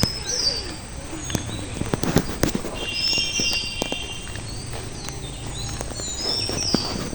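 Village birds calling again and again with short, high whistled phrases that rise and fall, and one held, buzzy call around the middle. A few sharp clicks and knocks come in between.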